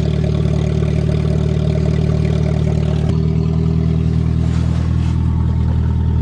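Car engine idling steadily just after a cold start, with a small shift in its note about three seconds in.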